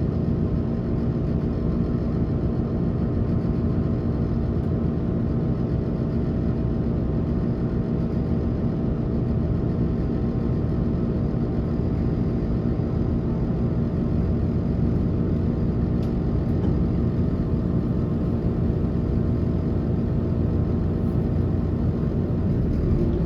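Onboard running noise of a passenger train at steady speed: a low rumble of wheels on track with a constant hum of several steady tones from the drive.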